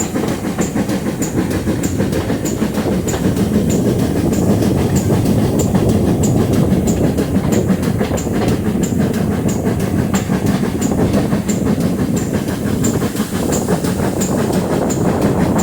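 Steam-hauled passenger train climbing a steep gradient, heard from a carriage: a steady, loud rumble of the train running, with a faint regular beat about two and a half times a second.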